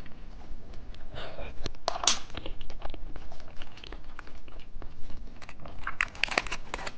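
Plastic packaging being handled and crinkled, with scattered sharp clicks and taps; a louder crinkle about two seconds in and a denser run of crinkling near the end.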